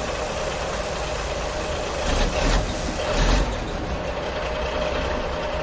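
Engine idling steadily, with two short louder surges about two and three seconds in.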